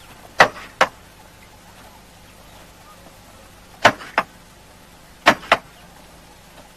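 Six sharp impacts in three close pairs, each pair about a third of a second apart, over a faint steady background.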